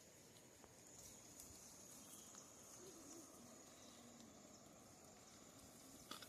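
Near silence: faint outdoor ambience with a thin steady high-pitched tone, scattered soft ticks, and a sharper click near the end.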